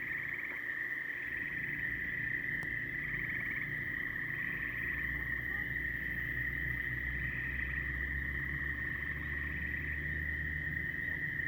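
A chorus of frogs calling: a continuous high trilling drone, with louder pulsed trills from nearer frogs breaking in about every second or so.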